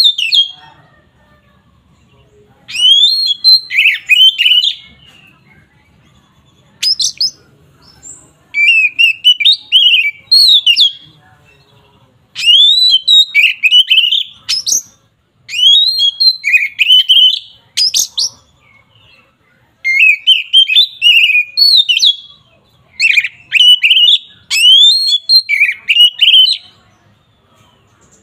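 Oriental magpie-robin (kacer) singing loudly in repeated phrases of rapid sweeping whistles and chattering notes. Each phrase lasts one to three seconds, with short pauses between.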